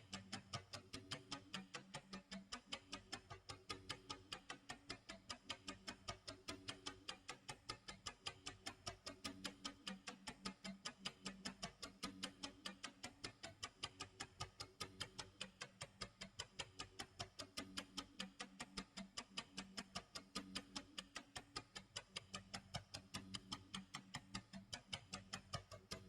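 Clock tick-tock sound effect: faint, fast, even ticking that never changes, with low steady tones coming and going underneath.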